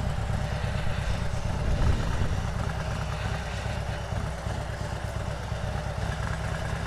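Harley-Davidson Road Glide's V-twin engine running at low revs, a steady low rumble.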